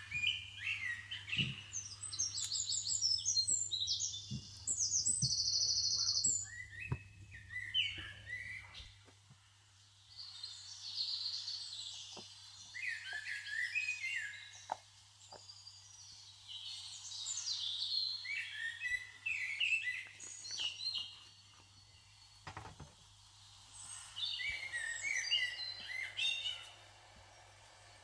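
Birds chirping and singing in several spells of quick high notes, including a fast trill, with short pauses between them; a faint steady low hum underneath.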